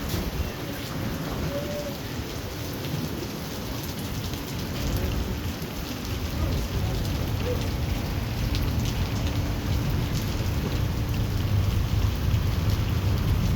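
Heavy thunderstorm rain pouring down, with a low rumble underneath that grows louder toward the end.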